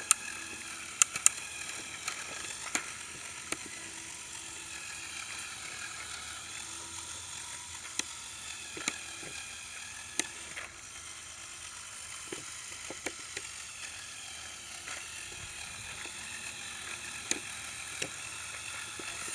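Electric motors and plastic gears of a Lego Technic RC trial truck whining steadily as it crawls, with scattered sharp clicks and knocks of plastic parts on rock.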